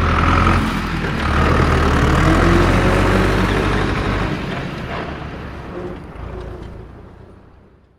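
A heavy vehicle engine running with a strong low hum, fading away steadily over the second half.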